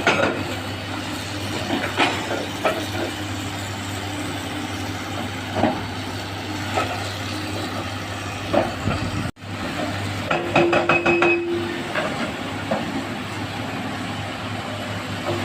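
Heavy diesel machinery running steadily while excavators load rock into a dump truck, with scattered clanks and knocks of rock and steel. A burst of rapid clattering with a squeal comes about ten seconds in.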